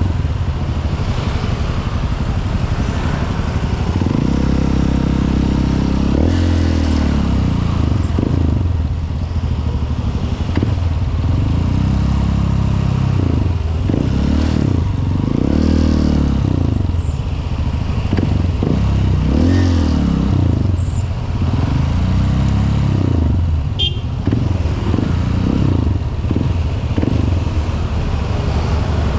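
Honda CRF150L's single-cylinder four-stroke engine running under way, its pitch rising and falling again and again as the throttle opens and closes.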